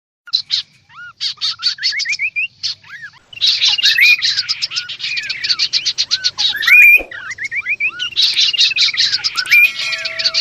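Kaso-kaso birds, male and female, calling together. One voice gives rapid runs of sharp high chirps, up to about ten a second, over repeated rising and falling whistled slurs. A single sharp click comes about two-thirds of the way through.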